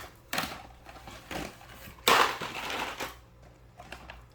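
Rummaging and handling noises as someone searches through belongings for a loose toy: several short noisy bursts, the loudest and longest about two seconds in, lasting roughly a second.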